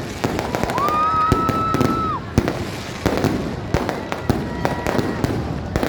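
Fireworks going off: many sharp bangs and pops in quick succession, with a held whistling tone from about a second in that lasts about a second.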